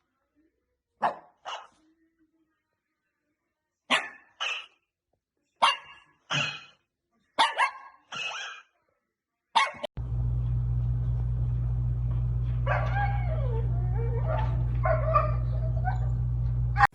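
A dog barking, mostly in pairs of two quick barks about half a second apart, four pairs and then a single bark. About ten seconds in, a steady low hum cuts in and runs on, with faint rising and falling pitched sounds over it.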